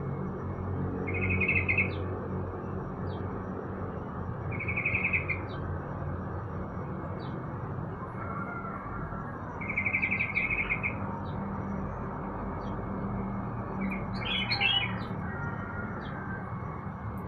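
Caged songbirds calling. Short trilled bursts repeat every few seconds between scattered small chirps, with a cluster of sharper calls about fourteen seconds in, all over a steady low hum.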